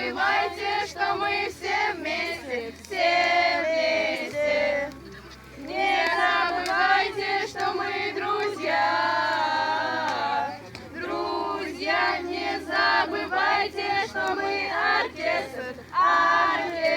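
A group of young voices singing a song together in chorus, with notes held and gliding.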